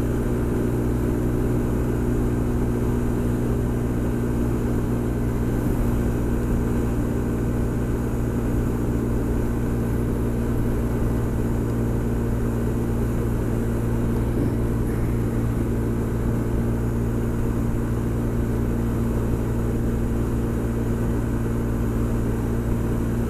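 Honda SH 300i scooter's single-cylinder four-stroke engine running steadily at cruising speed, with road and wind noise.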